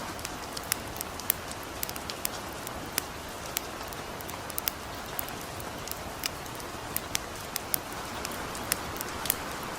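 Gentle rain falling steadily, with the irregular sharp crackles and pops of a wood campfire, a few each second.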